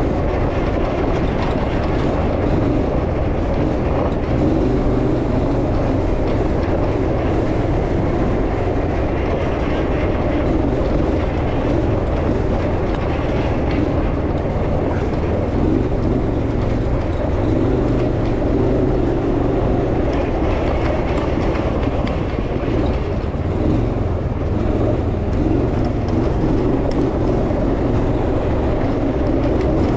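Off-road vehicle driving over rough ground, heard on board: a steady engine rumble mixed with rattling.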